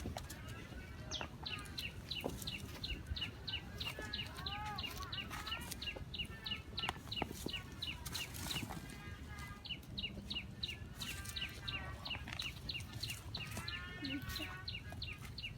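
Birds chirping: a fast series of short high notes, about four a second, pausing once or twice, with a few lower curved calls mixed in, over a steady low rumble.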